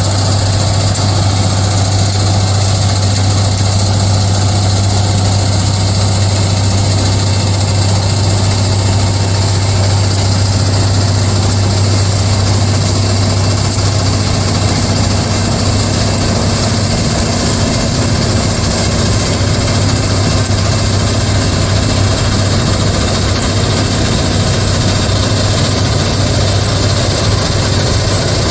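Loram SBC-20 shoulder ballast cleaner's heavy diesel machinery running steadily, a loud unbroken drone with a deep hum.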